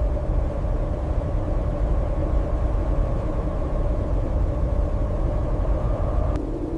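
A steady, loud low rumble with a faint held hum above it, which changes abruptly near the end.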